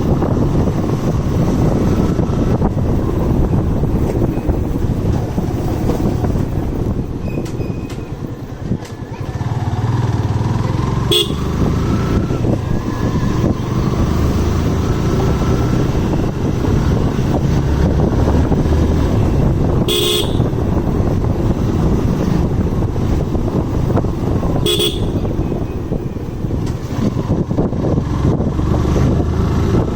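Wind buffeting the microphone and road and engine noise during a motorcycle ride, with a vehicle horn honking briefly three times, about a third, two thirds and four fifths of the way through.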